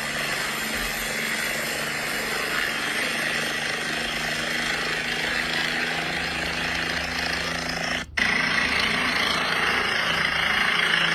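Helicopter running close by: a steady, loud rush of turbine and rotor noise over a low hum. It drops out for an instant about eight seconds in and comes back slightly louder.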